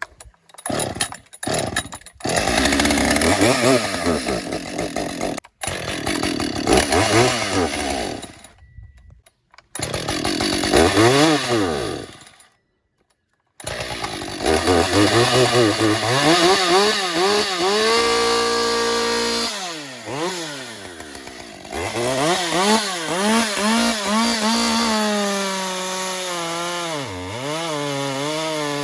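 Husqvarna 550 XP two-stroke chainsaw struggling to hot start: it fires, revs briefly and dies several times, then catches about 14 seconds in and keeps running, revving up and down with a short steady stretch at high revs. The 550 is known to start badly when hot.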